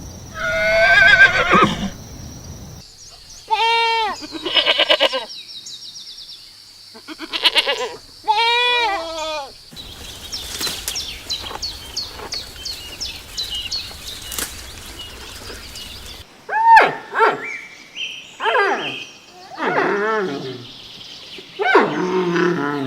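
Farm animals calling: a run of separate pitched calls with a wavering rise and fall, several in a row and split by abrupt changes of background.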